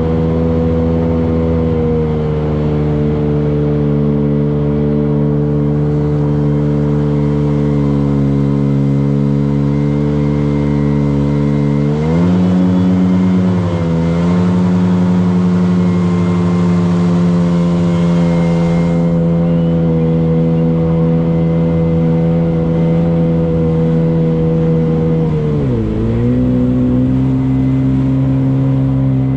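Motorboat engine running steadily at speed, its pitch shifting briefly about twelve seconds in and again near the end.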